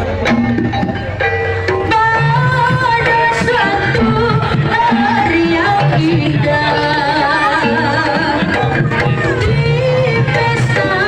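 Jaranan gamelan music: hand drums keep a steady rhythm under a wavering, winding melody line.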